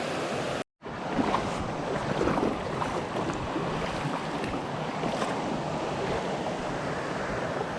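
Steady rushing of creek water over a small waterfall, with some wind on the microphone; it cuts out completely for a moment just under a second in, then carries on unchanged.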